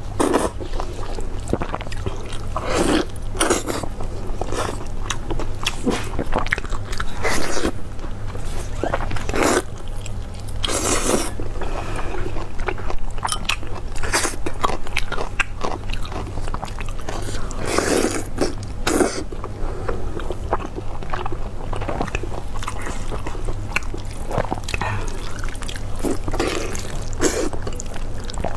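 Close-miked biting and chewing of sauce-glazed braised meat, with irregular bites and chews and now and then a louder one.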